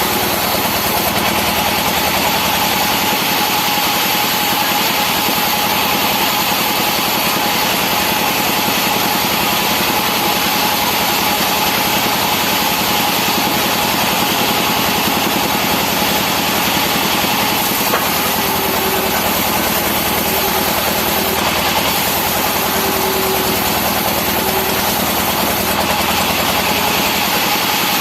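Sawmill saw machinery running steadily: an engine drone with a constant high whine, its level unchanging throughout.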